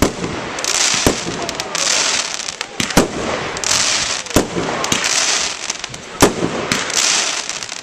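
Professional fireworks display: shells burst with sharp bangs every second or two, about six in all, with stretches of high hissing crackle between them.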